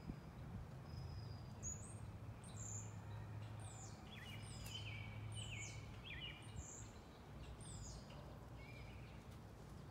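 Songbirds calling: a string of short high chirps and down-slurred whistles from about a second and a half in until near the end, over a faint steady low rumble.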